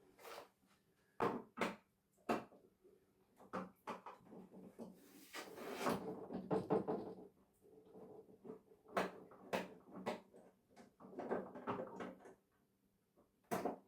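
Irregular clicks, knocks and short scrapes of a television's plastic casing and parts being handled and taken apart.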